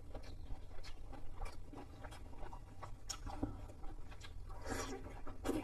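Close-miked chewing of fried chicken: irregular wet crunches and smacks, with a denser, louder bout of crunching about five seconds in.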